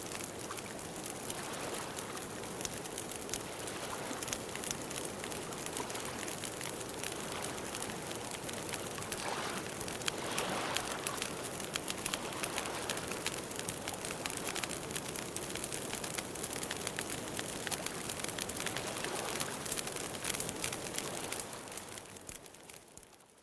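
Campfire crackling: a steady hiss of burning wood dotted with many small snaps and pops, fading out near the end.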